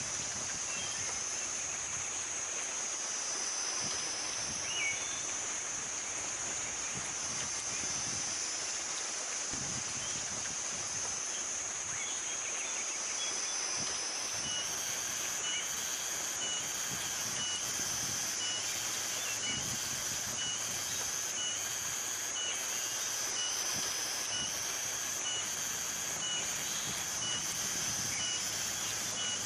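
Outdoor natural ambience: a steady high-pitched drone that slowly swells and fades, with a few short bird chirps. From about halfway through, a short call or pulse repeats about once a second.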